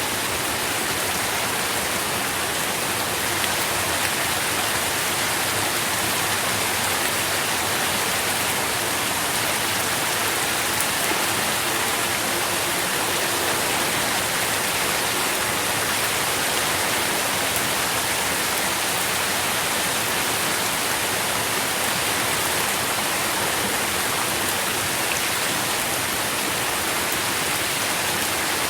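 Steady rain falling, a dense even hiss of drops with a light patter.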